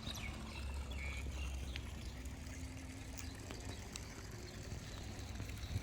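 Outdoor ambience: a steady low rumble, like wind on the microphone, with a few faint high chirps in the first second and scattered small clicks.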